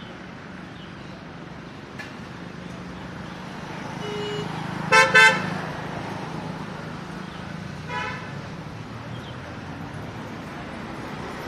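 Vehicle horn honking: two short loud blasts in quick succession about five seconds in and a fainter toot around eight seconds, over steady road traffic noise.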